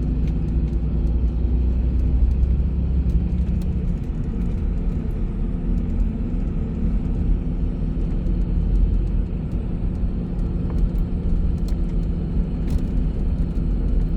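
Bus engine and road noise: a steady low rumble with an engine hum that drifts slightly in pitch.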